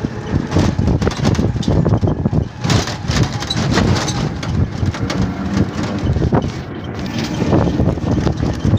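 A vehicle running, with steady rumbling noise and frequent rattles and knocks.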